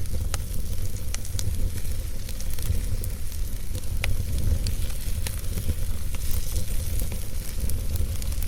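Wood fire burning in a fireplace: a steady low rumble and hiss with scattered sharp crackles and pops from the burning logs.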